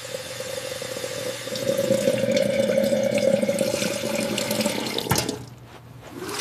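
Water running from a tap for about five seconds, stopping with a click, followed by a single knock near the end.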